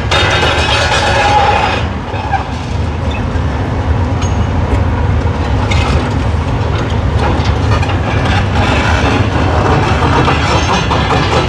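Heavy demolition excavator working, its diesel engine rumbling under a continuous crunching and clattering of broken concrete and brick rubble.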